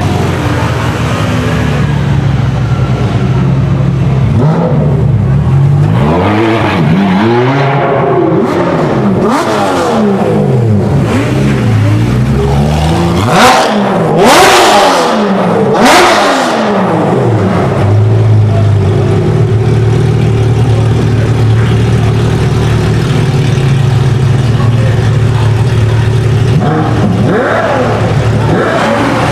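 Sports car engines revving again and again, the pitch sweeping up and falling back, with three loud sharp blasts about halfway through. Before and after the revving, engines run low and steady.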